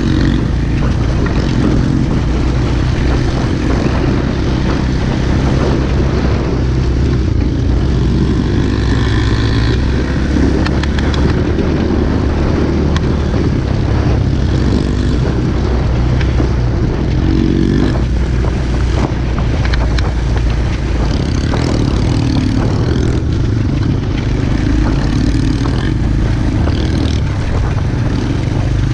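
Pit bike's small engine running steadily as the bike rides along off-road, with wind and rattle noise over it.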